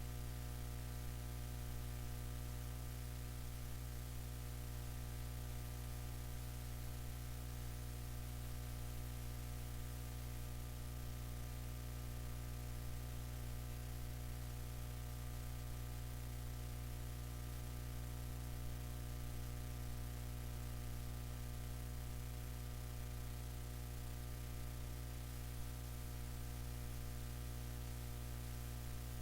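Steady electrical hum with a row of evenly spaced overtones, under a constant background hiss.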